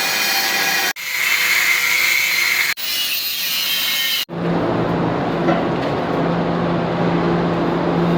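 Power tool cutting or grinding steel pipe: a loud, hissing, high whine in three short spliced clips. About four seconds in, it gives way to a steady low machine hum.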